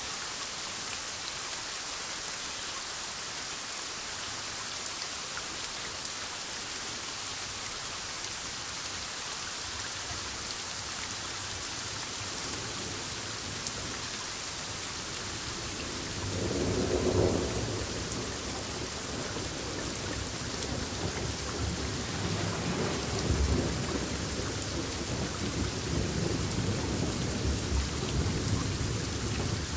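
Steady heavy rain falling on surfaces. About sixteen seconds in, a low rolling thunder rumble swells up, peaks a second later, then keeps rumbling with further swells until near the end.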